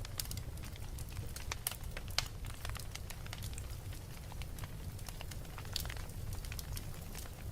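Wood fire in a fireplace burning with a steady low rumble and frequent sharp crackles and pops, a few louder pops scattered through.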